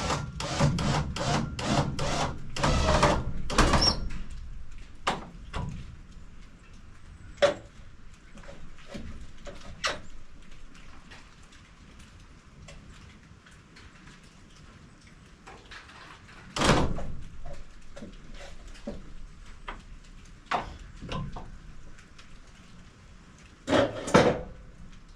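A series of knocks and clatters of wood and metal being handled: a quick run of knocks in the first few seconds, then scattered single knocks, with louder bangs about two-thirds of the way through and near the end.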